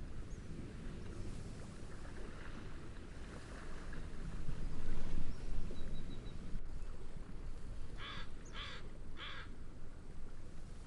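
Steady wind and gentle waves, swelling to a louder wash about four to five seconds in. Near the end a bird calls three times in quick succession.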